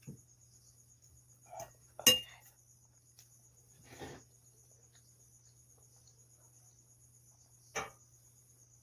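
A few scattered clinks and knocks of cutlery against a dish, the sharpest about two seconds in, over a steady high chirring of crickets and a low steady hum.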